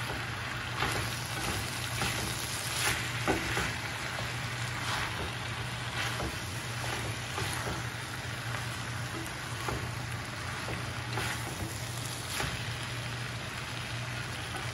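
Chicken fajita strips, bell peppers and onion sizzling in a frying pan in butter and juices, with a steady hiss. A wooden spoon stirs them, giving scattered scrapes and knocks against the pan over a steady low hum.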